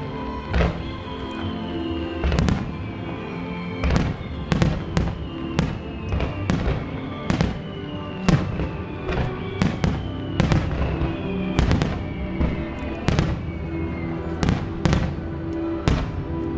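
Aerial fireworks shells bursting in an irregular string of about twenty sharp bangs, over music played with the show.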